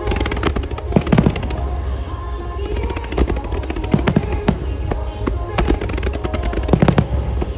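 Rapid aerial fireworks shells bursting in quick succession, sharp cracks and bangs several a second, over music played through the show's loudspeakers for a music starmine.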